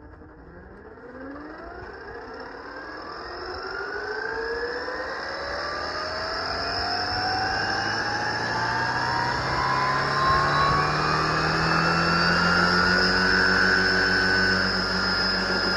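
Radio-controlled helicopter spooling up: its motor and rotor whine rises steadily in pitch and grows louder for about twelve seconds, then settles to a steady pitch near the end.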